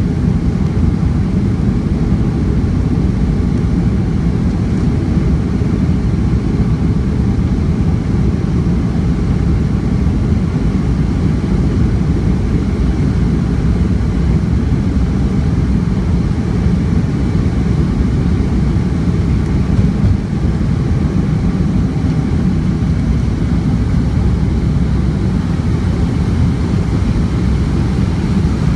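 Boeing 757-200 jet engines at takeoff power, heard from a window seat inside the cabin as a loud, steady low-pitched noise, with a brief dip about twenty seconds in.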